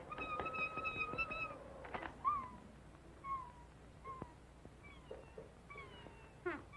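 Cartoon soundtrack of squeaky, animal-like vocal effects: a held high cry for about a second and a half, then a string of short, high calls that each drop in pitch, a little under one a second.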